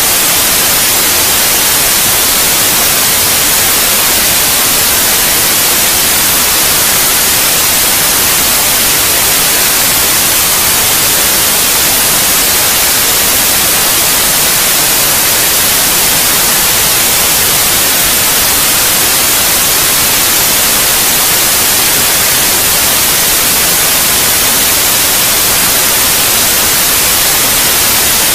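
Steady white noise: a loud, even hiss, brightest in the high frequencies, with no change at all.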